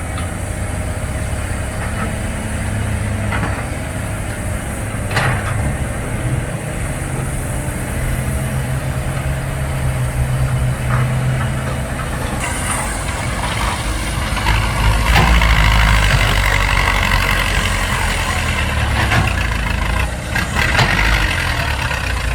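Heavy diesel engine of a dump truck or excavator running steadily, growing louder and harsher just past halfway through.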